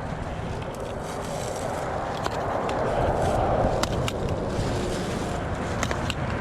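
Road traffic noise from vehicles on a busy dual carriageway, with a rush of tyre noise that swells as a vehicle passes around the middle. A few sharp clicks are heard over it.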